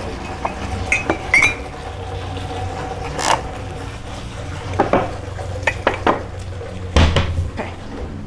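Scattered clinks and knocks of containers and bath supplies being handled, over a steady low hum.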